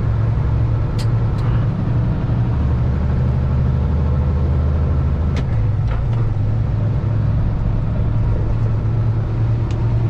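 Kenworth heavy-haul semi tractor's diesel engine running under load with road noise, heard from the cab as a steady low drone. The pitch sits lower for a few seconds near the middle, and there are a few faint clicks.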